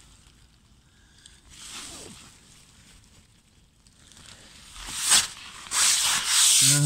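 Tent fabric being handled and rustling. There is a soft swish about two seconds in, a sharp scrape about five seconds in, and then loud, continuous rustling near the end.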